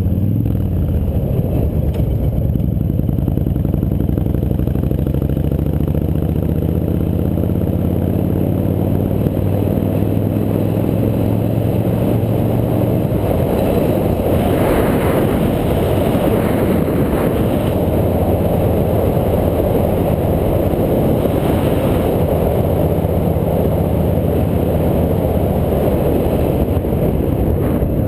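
Motorcycle engine running under way while riding, its pitch shifting gently in the first seconds and then holding steady, over a continuous rush of noise.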